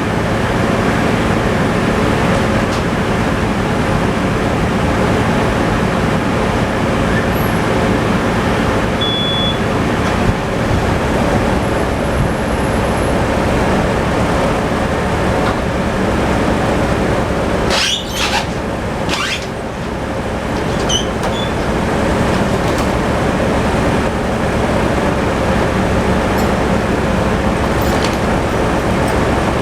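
Tractor engine running steadily at a constant speed. About eighteen seconds in there is a brief pair of high scraping, squealing noises.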